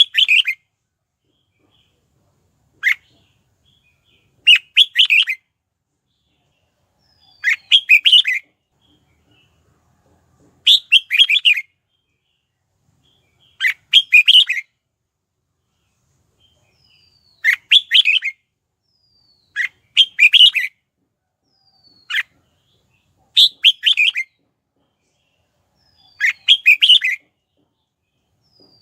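Red-whiskered bulbul singing: short, bright song phrases repeated about every two to three seconds, with silence between them.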